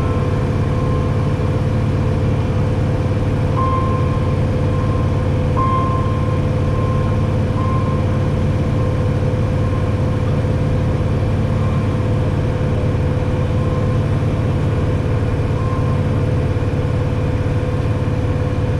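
Steady drone of a Cessna light aircraft's piston engine and propeller in cruise, heard from inside the cabin. A few faint short high tones sound over it now and then.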